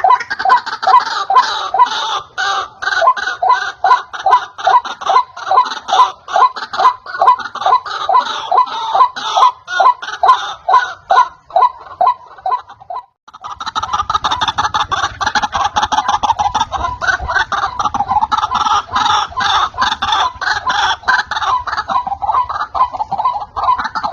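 White-breasted waterhen (ruak-ruak) calling: a fast, loud run of repeated harsh notes, a few a second. About halfway through the calls break off for half a second, then resume denser, with a low rumble underneath.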